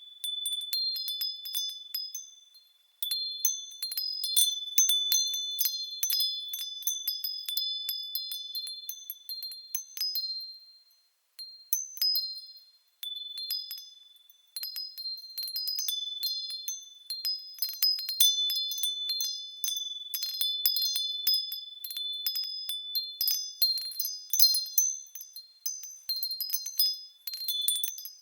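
Japanese wind chimes (fūrin) ringing in the breeze: irregular clusters of high, clear, ringing tones that die away, with brief lulls about 11 and 13 seconds in.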